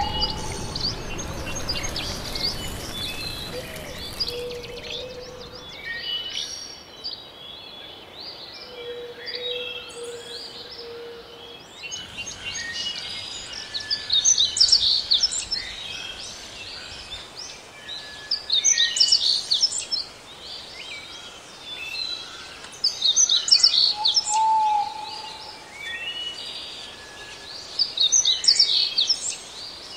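Wild birds singing and chirping in a natural soundscape, many overlapping short high calls, with louder bursts of song recurring every four or five seconds in the second half. A low rushing noise fades out during the first few seconds.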